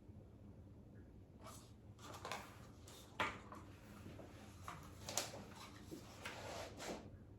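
Scattered handling noises: a series of short knocks, scrapes and rustles over about five seconds, the sharpest knock about three seconds in.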